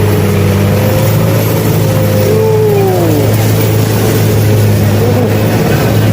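A vehicle engine running loud and steady with a low drone, as used when towing a truck up a steep climb. A few brief falling tones sound about two to three seconds in.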